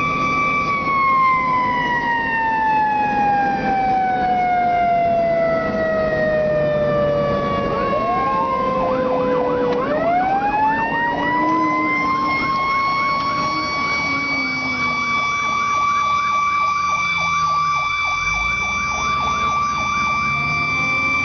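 Fire engine's mechanical siren: a high held wail that winds slowly down for about nine seconds, then winds back up over a few seconds and holds high again. A faster warbling electronic siren runs under it in the second half.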